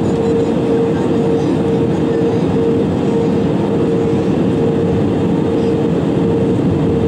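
Steady cabin noise inside an Airbus A320-200 airliner: a constant rush of engine and airflow noise with a steady hum a little under 500 Hz, unchanging throughout.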